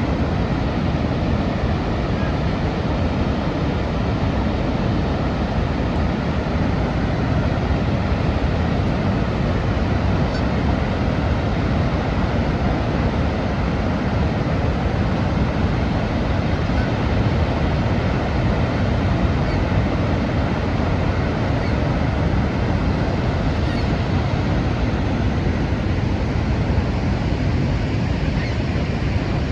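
Niagara Falls' water plunging and rushing in a steady, unbroken torrent, heaviest in the low range.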